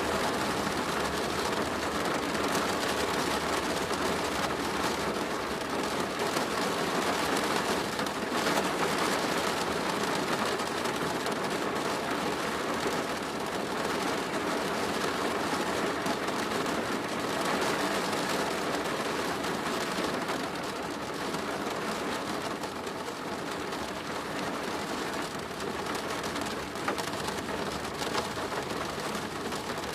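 Steady heavy rain drumming on a plastic roof, a dense even patter of drops.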